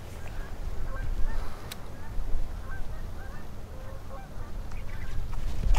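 Short bird calls repeating again and again over a low rumble of wind on the microphone.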